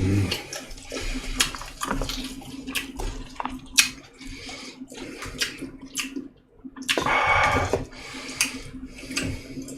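Close-miked wet chewing and mouth sounds of a person eating, with many short smacking clicks and a louder noisy stretch about seven seconds in.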